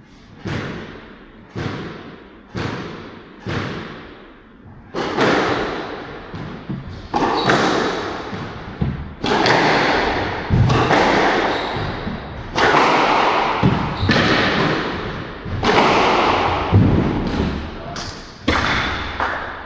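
A squash rally: the ball is struck hard by the racket and thuds off the court walls, each hit ringing on in the court. In the first few seconds there are single hits about a second apart. A quicker, continuous run of hits begins about five seconds in.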